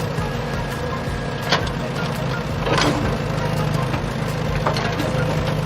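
Vehicle engine running steadily at a low rumble, with a couple of sharp clicks and a brief rushing burst about halfway through.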